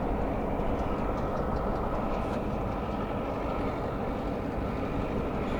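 Steady low rumble of a running engine, even in level, with a few faint ticks.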